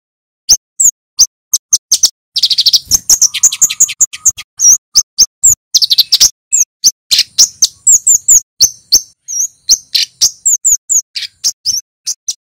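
Male kemade flowerpecker calling: a fast, irregular string of sharp, high 'cit' chips, loud and clear, with bursts of rapid trilled chips about two and a half seconds and six seconds in.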